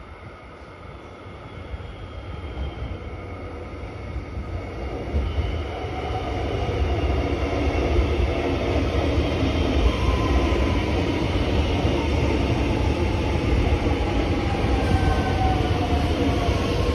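Electric suburban train approaching, growing louder over the first several seconds, then running steadily past with a low rumble and whining tones that slide slowly downward near the end.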